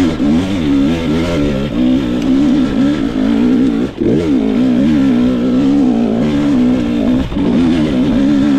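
2022 GasGas EX 250 two-stroke TPI dirt bike engine running under the rider, its revs rising and falling with the throttle as it climbs, with a brief drop and quick rev-up about four seconds in.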